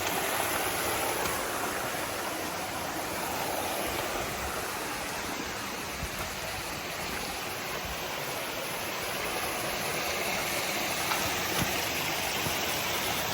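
Creek water running over rocks, a steady rushing noise.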